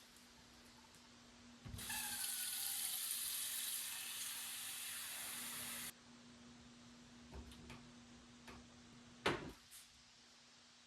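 Water running from a tap for about four seconds, starting and stopping abruptly. A sharp knock follows a few seconds later, over a faint steady hum.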